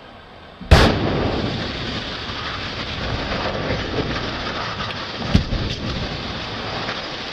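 Building demolition: a sudden loud bang about a second in, then a long rumbling crash of collapsing structure and falling debris, with another sharp crack about five seconds in.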